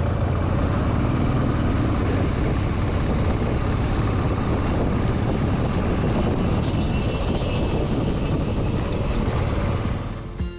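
Motorcycle on the move: a steady rumble of wind rush and engine on the rider's microphone. It fades out near the end as plucked guitar music comes in.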